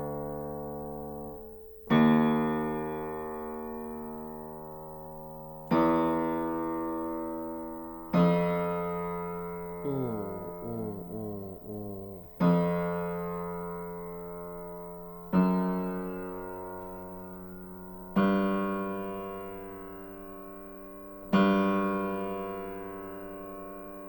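Aldrich spinet piano notes struck one at a time and left to ring out, about every three seconds, with a quick run of short notes near the middle; the keys are being played one by one to check the tuning.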